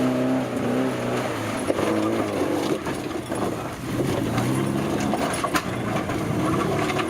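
Off-road 4x4's engine revving up and down under load, with scattered knocks and clatter.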